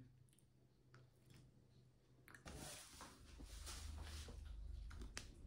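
Near silence for the first couple of seconds, then faint crackly chewing of a crunchy fried veg cutlet from about two and a half seconds in.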